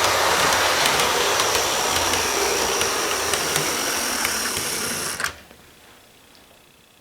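Bachmann HO scale model train running on its track: a steady small-motor whir with a thin high whine and light clicks of the wheels over rail joints. It cuts off suddenly about five seconds in.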